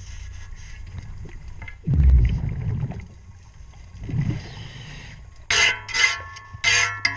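Underwater sound of a scuba diver breathing through a regulator: two low rumbling gushes of exhaled bubbles, then a hiss of breath. Near the end comes a quick run of about five sharp metallic clinks from a cleaning tool striking the boat's propeller.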